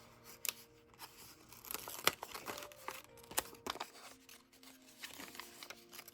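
Planner stickers being peeled from a sticker sheet: paper crinkling and tearing with a few sharp ticks, the loudest about two seconds in. The sheet is badly cut, so the sticker tears as it is worked free.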